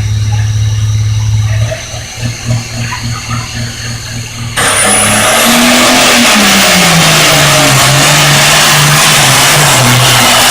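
Turbocharged pulling tractor engine idling, then revving in short uneven blips. About four and a half seconds in it goes suddenly to full throttle, very loud, with a high turbo whistle rising, and the engine note falls steadily as it pulls.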